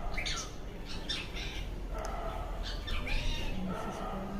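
A series of pitched, wavering animal cries, about one a second, taken for a night bird, over a steady low rumble.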